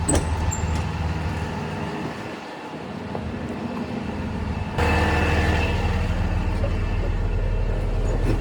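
A catering truck's engine running steadily with the PTO engaged, with a click at the start. About halfway through, the hum suddenly gets louder and stays that way.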